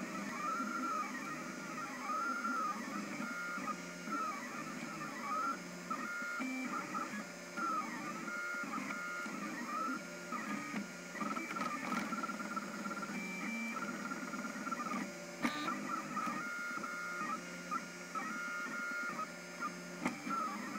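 MakerBot Thing-O-Matic 3D printer's stepper motors whining through printing moves, the pitch rising and falling with each move, with a few sharp clicks. The owner hears ugly noises like these when the printer slips on one axis, though nothing binds and everything moves freely by hand.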